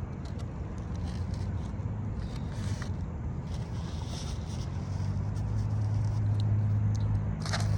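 Someone eating between bites: soft chewing and small clicks and rustles of food handling, with a sharper rustle near the end, over a steady low hum that grows a little louder.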